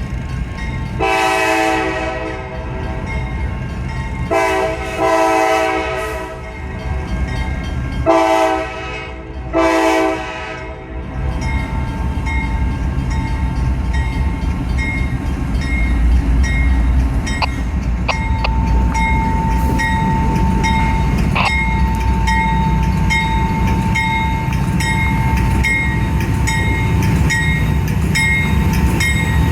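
Freight locomotive's Nathan K5LA five-chime horn sounding long, long, short, long, the grade-crossing signal, in the first ten seconds. Then a steady rumble of the locomotives and train passing, with a regular clicking and a thin steady whine.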